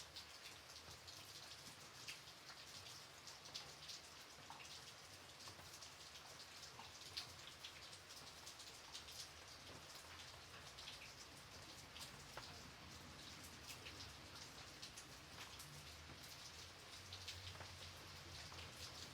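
Gentle rain falling, quiet and steady, with many separate drops ticking throughout.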